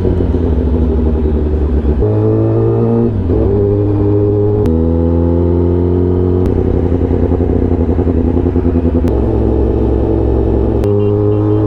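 Kawasaki ZX-10R's inline-four engine under way, its pitch climbing steadily as it accelerates and dropping abruptly several times.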